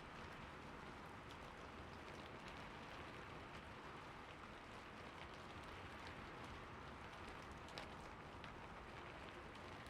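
Soft, steady rain: a faint, even hiss with scattered light drop ticks.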